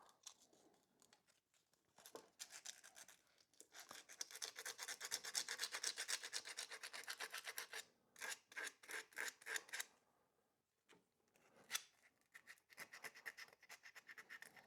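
Emery cloth scrubbed back and forth in quick strokes against a motorcycle's electrical terminal, cleaning off dirt for a good contact. The scrubbing comes in spells with short pauses, heaviest in the middle.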